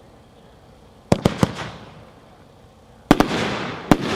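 Shots from a Magnus 'Neon Jungle' consumer fireworks cake: three sharp bangs in quick succession about a second in, then two more close together about three seconds in and another just before the end, each trailing off in a hiss.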